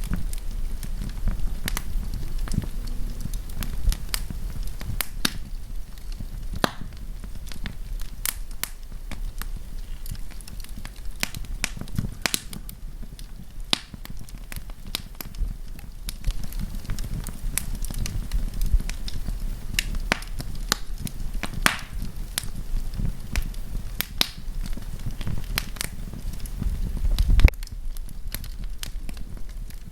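Wood campfire crackling: irregular sharp pops and snaps over a steady low rumble, with one louder low swell near the end.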